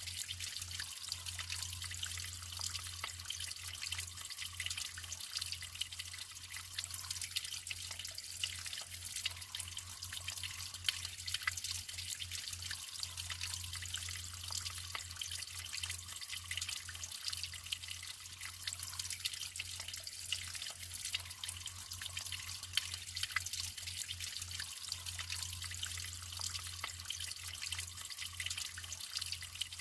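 Natural running water trickling and splashing steadily, with a dense patter of small drips.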